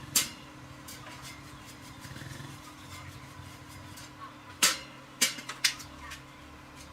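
A low steady hum, like a small electric motor running, with sharp clicks: one just after the start and four in quick succession a little past the middle.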